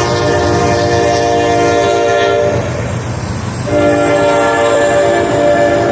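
Freight train locomotive horn sounding a long blast, breaking off for about a second, then sounding again, over the low rumble of the passing train.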